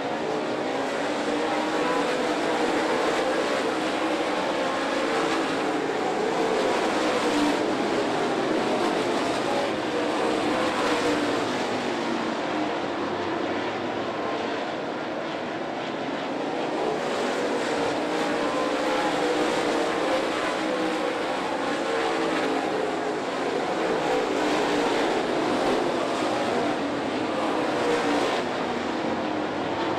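A field of dirt late model race cars racing around the track, their V8 engines running hard together, the engine notes rising and falling as the cars come past.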